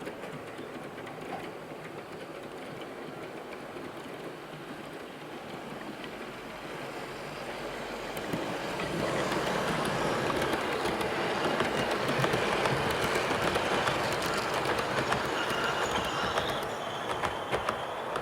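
Model train, a Class 67 locomotive with a rake of Mark III coaches and a DVT, running round the layout track, its wheels rattling and clicking over the rail joints. It grows louder from about seven seconds in, is loudest as it runs close by, and eases slightly near the end.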